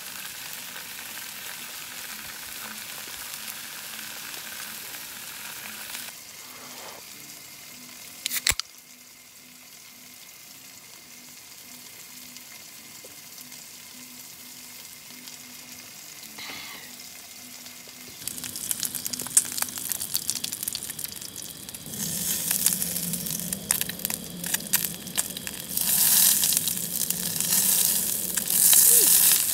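Gopchang (grilled intestines) frying in a pan on a camping stove. A soft sizzle, then a quieter stretch broken by one sharp knock about eight seconds in. From about eighteen seconds the frying grows louder, full of crackles and spitting pops.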